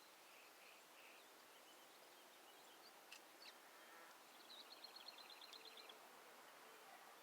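Faint songbird calls over a faint steady hiss: a few short high chirps, then about halfway through a rapid trill of about a dozen high notes lasting about a second and a half.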